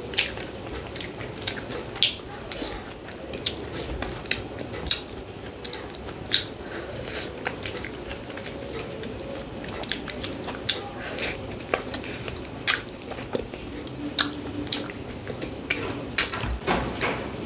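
Close-miked eating: chewing and mouth noises with many sharp, irregular clicks and smacks.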